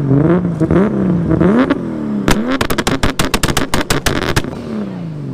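Car engine revving hard, its pitch climbing and dropping back several times, then a rapid string of sharp pops, about seven a second for two seconds, before the engine note falls away.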